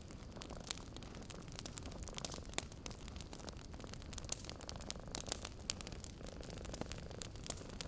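Wood fire in a fireplace crackling, with irregular sharp pops and snaps over a soft steady rush.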